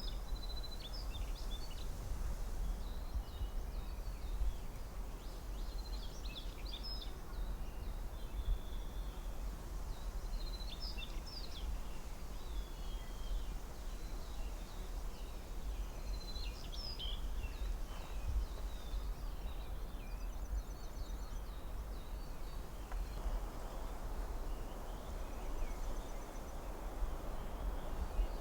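Forest ambience: a steady rush of wind with a low rumble, and small birds chirping in short scattered bursts. The wind grows a little stronger near the end.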